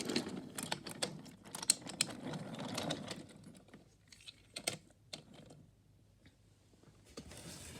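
Quick, irregular clicking and rattling of small hard objects being handled, dense for about three seconds, then a few scattered clicks before it goes quiet.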